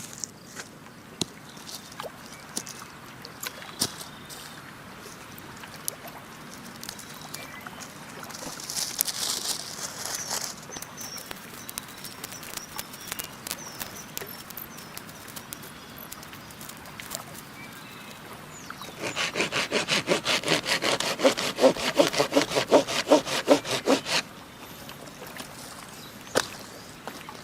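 Hand saw cutting wood, a run of quick, even back-and-forth strokes for about five seconds in the latter part, with scattered small clicks and a brief hiss before it.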